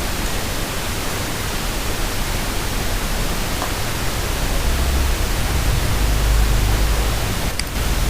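Steady broadband hiss of background noise, with a low rumble coming up about halfway through.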